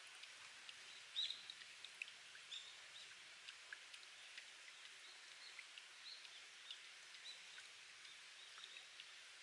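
Spring water dripping off rock in many small, irregular plinks over a faint hiss of trickling water, with one louder plink about a second in.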